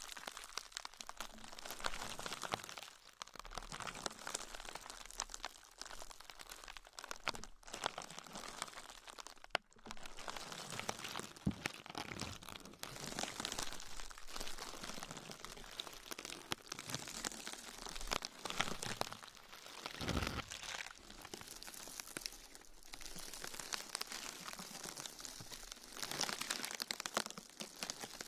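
Continuous close-up crinkling and crunching, as of crinkly material being squeezed and handled as an ASMR trigger, with brief pauses now and then.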